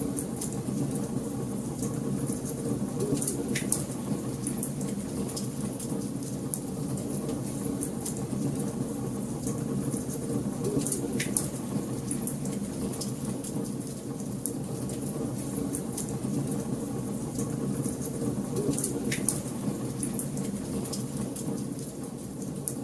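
Wood fire burning in a fireplace: a steady low rush with scattered sharp crackles and pops. Three louder snaps stand out, spread evenly through the stretch.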